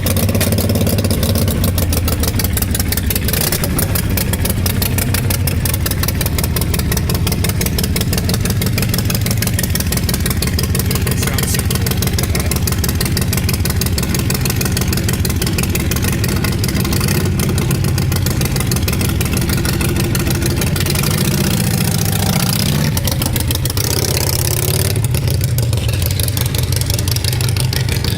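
Motorcycle engine running loud just after starting, idling with a steady rapid pulse, its pitch shifting briefly about three-quarters of the way through.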